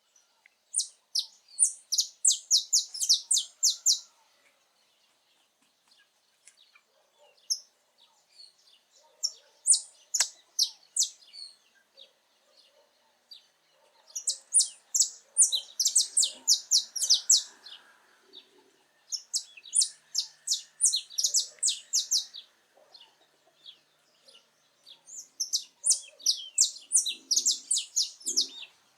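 Saffron finch singing: five phrases of rapid, high chipping notes, each lasting two to four seconds, with pauses of a few seconds between them.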